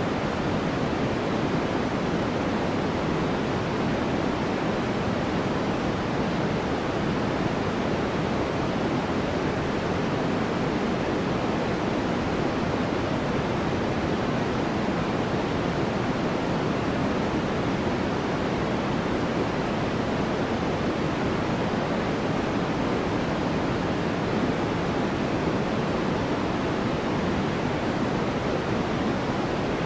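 Steady, unchanging sleep-aid noise, labelled white noise, with most of its weight in the low and middle range and little hiss at the top, like a distant rushing waterfall.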